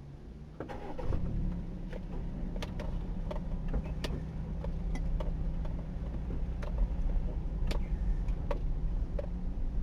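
Car driving: a steady low engine and road rumble that swells about a second in, with scattered sharp clicks over it.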